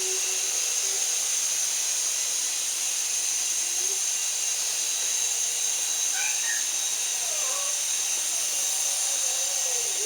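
Syma 107 mini RC helicopter's small electric motors and rotors running with a steady high-pitched whine as it hovers and flies.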